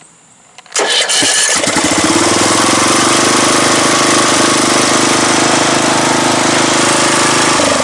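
Single-cylinder Briggs & Stratton engine of a Troy-Bilt Pony riding mower being cranked by its electric starter about a second in, catching almost at once and then running steadily. It starts and runs on its own now that its wiring has been corrected.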